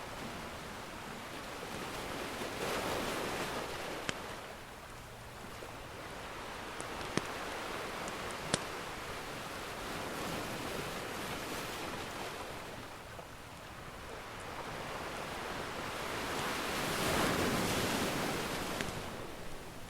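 Ocean surf washing in slow swells, three surges rising and falling, with a few sharp pops from a crackling wood fire.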